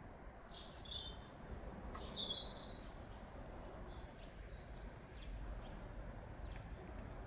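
Songbirds chirping in scattered short high calls and quick downward-sweeping notes, loudest a couple of seconds in, over a steady low outdoor rumble.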